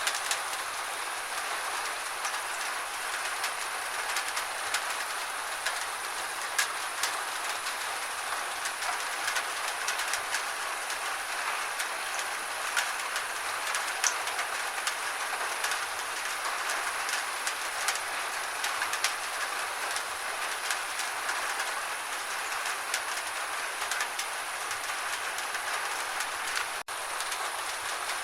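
Gentle rain: a steady hiss dotted with many small, sharp drop ticks, broken by a split-second dropout near the end.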